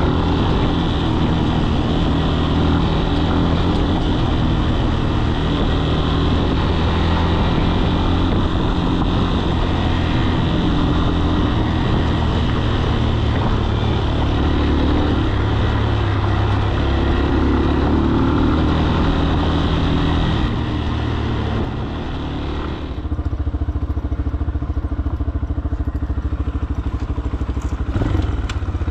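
Falat 200 cc single-cylinder motorcycle engine running under way, with a steady rush of wind over the microphone. About three-quarters of the way through, the engine note eases off and the wind rush dies away.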